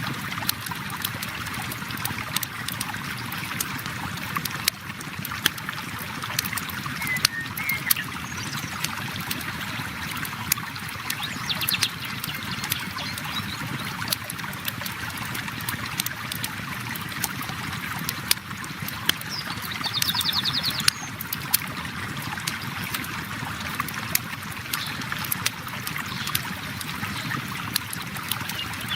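Flowing river water rushing steadily, with a campfire crackling over it in scattered, irregular pops.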